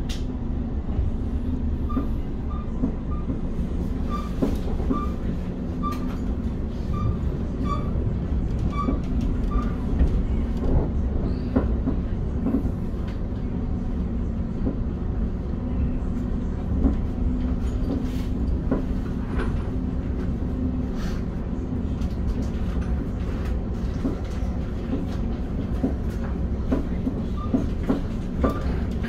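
Inside a Class 710 Aventra electric train running between stations: a steady low rumble and hum from the wheels and running gear, with scattered clicks over the rail joints. A run of faint short beeps sounds a couple of seconds in and again near the end.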